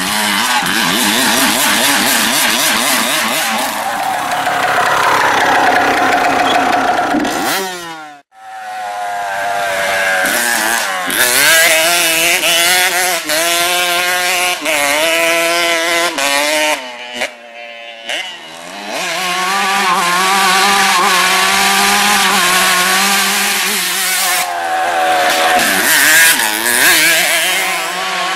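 Honda CR 125 two-stroke engine with its exhaust tip (silencer) removed, running loud and raspy and being revved up and down repeatedly. The sound drops out briefly twice, about a third and about two thirds of the way through.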